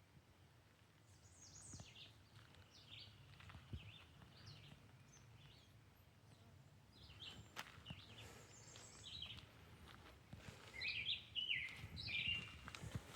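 Small birds chirping in short, quick notes, scattered at first and busier about ten seconds in, over faint outdoor ambience with a few light knocks.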